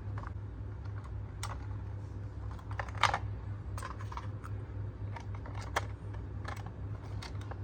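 Irregular light clicks and taps, about a dozen, with a louder one about three seconds in, over a steady low hum.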